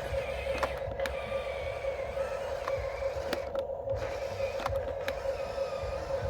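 Small electric motors and gearboxes of radio-controlled toy construction machines running with a steady whine, a faint wavering higher whine and scattered sharp clicks.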